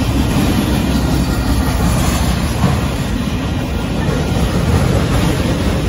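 Freight train of autorack cars rolling steadily past, a continuous rumble of steel wheels on rail.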